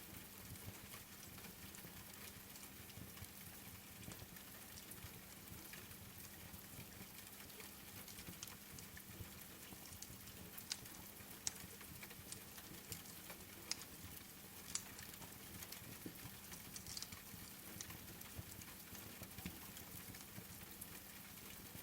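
Soft, steady rain with scattered sharp crackles from a wood fire, over a faint low hum.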